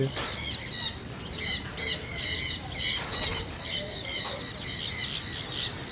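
A flock of parrots squawking and chattering over one another, with many short high-pitched calls repeating rapidly.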